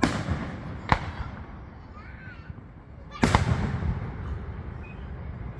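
Fireworks shells bursting overhead: a loud bang at the start, a sharp crack about a second in, and another loud bang a little past three seconds in, each followed by a low rumbling echo. Faint voices can be heard between the bursts.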